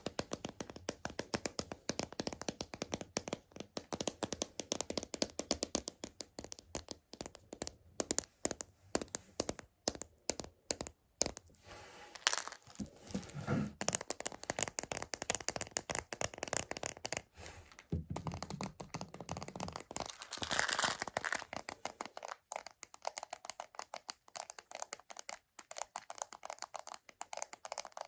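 Rapid, continuous tapping on a large Choco Baby chocolate candy container, many light clicks a second. Twice, about halfway and again later, it gives way to a few seconds of crinkling and rustling.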